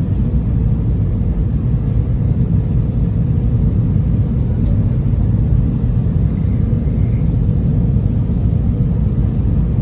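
Steady low rumble of an Airbus A320's cabin in flight, engine and airflow noise heard from a passenger seat, during the descent a few minutes before landing.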